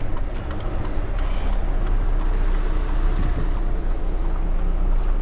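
Steady low rumble of a heavy goods vehicle's engine and road noise heard from inside the lorry cab.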